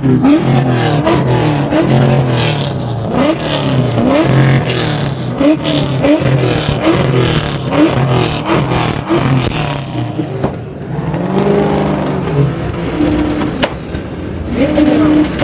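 Car engines revving again and again, the pitch rising and falling with each rev.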